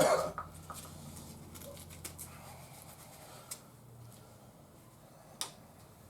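A work glove being pulled on and handled: faint rustling, with two short sharp clicks, one about three and a half seconds in and one near the end.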